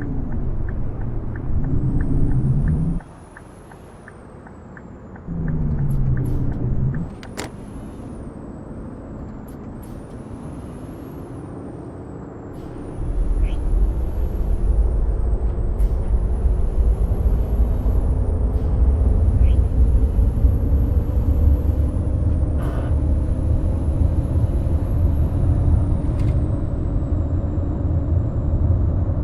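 Scania K420 double-decker bus's diesel engine revved twice, then running quieter after a sharp click, then pulling hard with its pitch slowly climbing. Above it a high whistle rises and drops back again and again.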